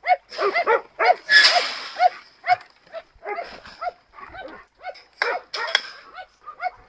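Dogs barking over and over in short, pitched barks, several a second at times. A brief rustle comes about a second and a half in.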